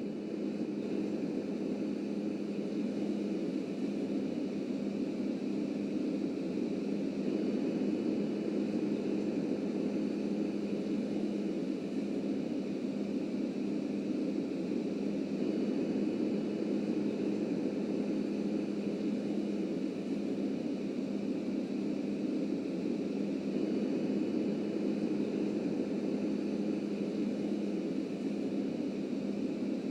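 Subway train running, a steady low rumble with a constant hum that holds unchanged throughout.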